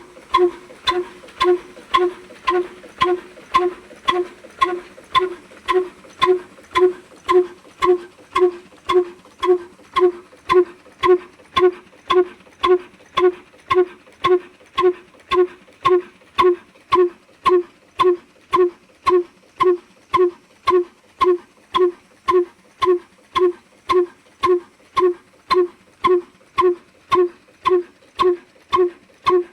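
Old stationary diesel engine running slowly and evenly, each firing a pitched exhaust pop, a little under two a second, with faint ticking between the beats.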